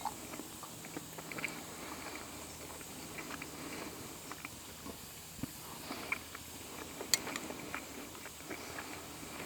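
Wood campfire crackling, with scattered small snaps and pops over a faint outdoor background; the sharpest pop comes about seven seconds in.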